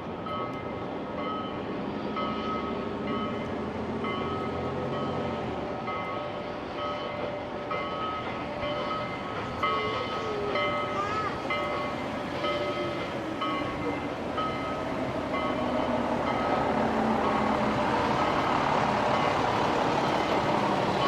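Spokane, Portland & Seattle 700, a 4-8-4 steam locomotive, running with its train and growing louder toward the end. Steady high ringing tones cut in and out throughout.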